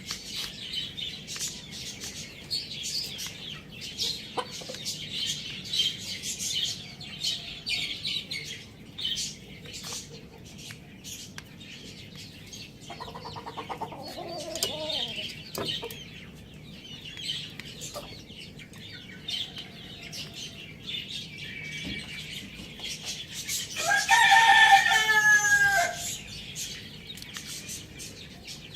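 Chickens clucking over a steady chatter of small birds chirping, with a rooster crowing once near the end, a single crow about two seconds long that is the loudest sound.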